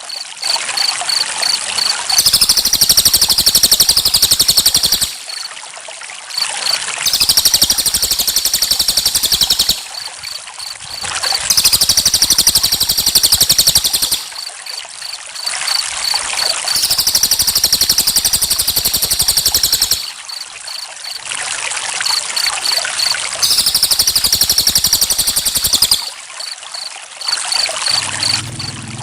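Water trickling, with cricket chirping laid over it in a repeating cycle: about every five seconds a loud, high, rapid chirping swells for two or three seconds, then drops back to steady quick chirps.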